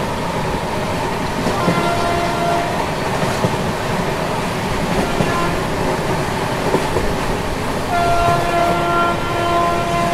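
Passenger train running, heard from inside a coach: a steady rumble and rattle of the wheels on the track. A pitched tone sounds briefly about two seconds in and again for a couple of seconds near the end.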